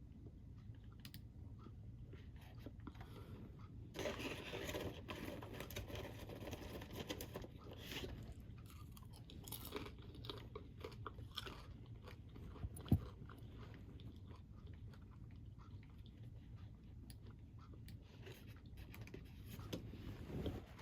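A person chewing a crunchy snack, with a steady low hum throughout. The crunching comes in dense spells about four seconds in and again near the end, with one sharp click about two-thirds of the way through.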